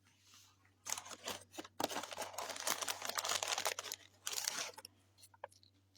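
Crinkling, crunching rustle of chicken-nugget packaging being handled close by, in three stretches with a few faint clicks near the end.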